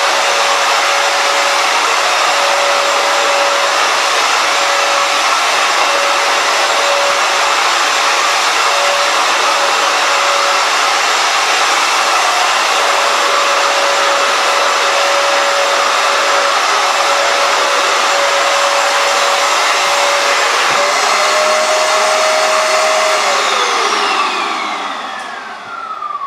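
Hoover FloorMate Edge wet-dry hard floor cleaner running with a steady whine, loud. About 21 seconds in its pitch rises a little, then near the end it is switched off and winds down, the whine sliding lower as it stops.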